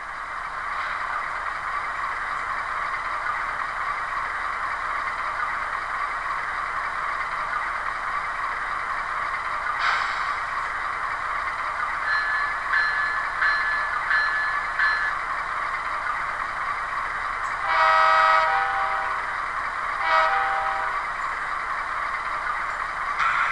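LokSound Select sound decoder in an HO-scale GE AC4400 diesel model, playing GE prime mover sound through the model's small speaker. The engine sound builds at the start and then runs steadily. Midway comes a run of short high dings, then a long horn blast and a shorter one.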